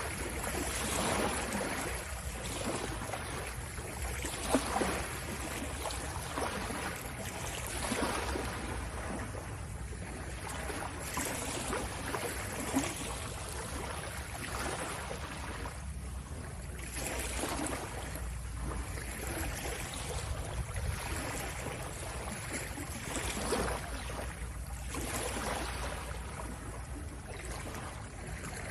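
Sea ambience: water washing and lapping in slow swells that rise and fall every few seconds, with two brief sharper splashes.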